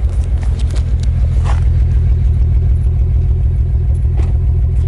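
BMW 135i's N54 twin-turbo straight-six idling with a misfire, a loud, uneven low pulsing. The misfire, in cylinder 5, is taken to be a failing ignition coil.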